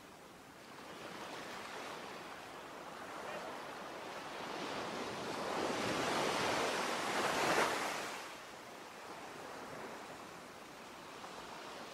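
Ocean surf: a wave swells up, breaks about seven and a half seconds in, then draws back to a softer wash.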